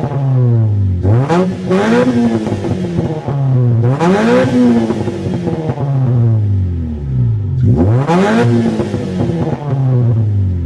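Engine revved through its exhaust in repeated throttle blips. The pitch rises and falls back to idle each time, about three big revs with a lower, steady idle between them.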